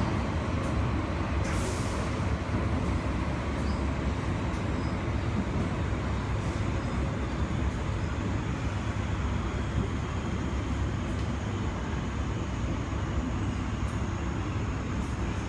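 Metro Cammell electric multiple unit running, heard inside the passenger car: a steady rumble of wheels and motors with an occasional faint click.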